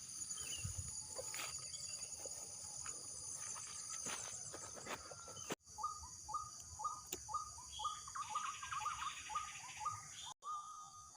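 Steady high chirring of insects in the field, with a run of short, quickly repeated animal calls in the second half; the sound drops out briefly twice.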